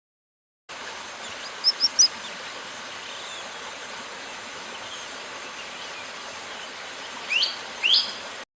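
Outdoor nature ambience with a steady even hiss, cut in after a brief silence; three quick high bird chirps sound about a second in, and two louder sweeping bird calls near the end.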